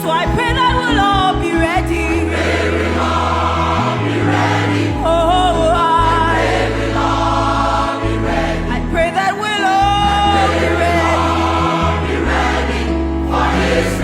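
Choir singing a gospel song with instrumental accompaniment: wavering sung melody over a steady bass line and beat.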